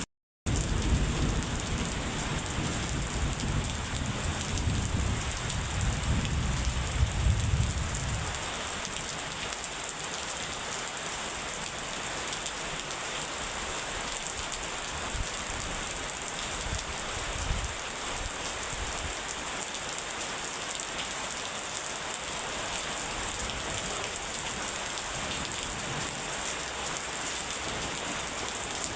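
Steady rain hissing, with a low roll of thunder rumbling under it for the first eight seconds or so before it dies away and leaves the rain alone. The sound cuts out completely for a split second just after the start.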